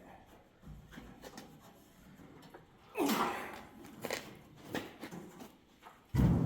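Handling noises: scattered clicks and knocks, a scraping creak about three seconds in, and a heavy thump near the end.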